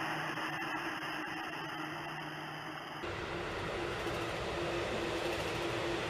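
Seibu Railway electric train running, a steady rushing noise with a faint steady hum. The sound switches abruptly about three seconds in.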